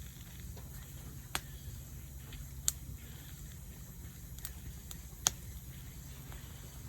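Wood fire crackling, with four sharp pops, the loudest about five seconds in, over a steady low rumble.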